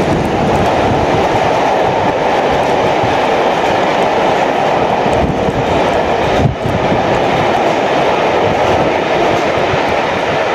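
Rake of passenger coaches behind a steam locomotive running past at speed, a steady loud rolling rush with wheels clattering on the rails. There is a momentary dip about six and a half seconds in.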